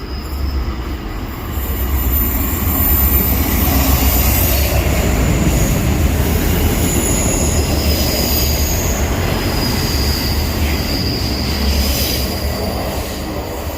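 Passenger train running along the platform: a loud, steady low rumble that swells about two seconds in, with high-pitched metal-on-metal squeal from the wheels on the rails.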